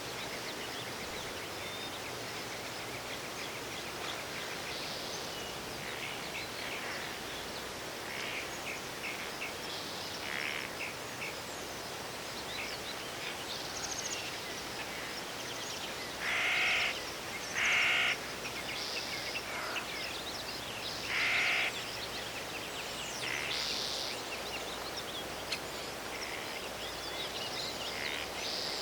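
A crow cawing: three harsh caws, the first two close together a little over halfway through, the third a few seconds later. Underneath is a steady background hiss, with scattered high chirps of small birds.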